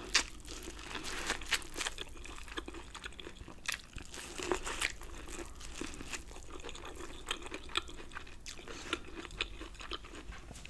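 Biting and chewing corn kernels off a cob coated in Alfredo sauce: many short crunches and clicks.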